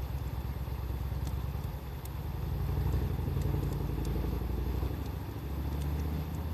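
Wood fire crackling with a few sharp pops, over a louder low engine rumble that shifts in pitch a couple of times.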